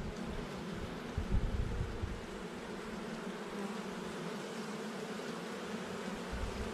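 Honeybees buzzing in a steady hum around an open hive as its brood frames are lifted out, with some low rumbling bumps in the first couple of seconds.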